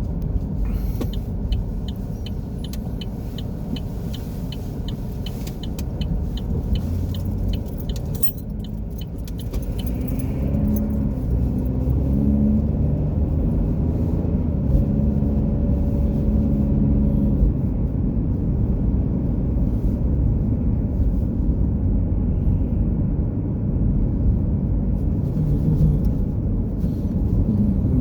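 Car driving on the road: a steady low road and engine rumble. For the first third there is a regular ticking, about two ticks a second, and a little later some wavering pitched hum rises over the rumble.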